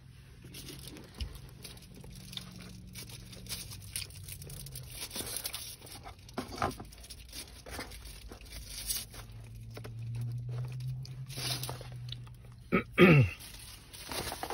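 Close-up chewing and crunching of crispy fried chicken tenders, with crackles and small clicks throughout. Near the end comes a short, loud sound that falls steeply in pitch.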